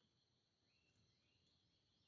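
Near silence: a faint, steady high insect drone, with two faint short rising chirps about halfway through.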